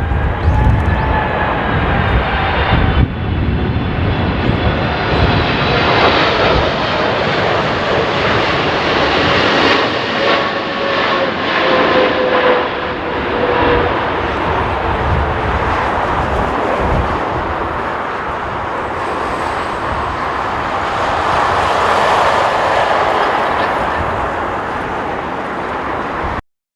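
Jet airliner passing low on its landing approach: engine whine with tones that slide down in pitch as it goes by, over a steady jet rumble that swells again later, then cuts off suddenly.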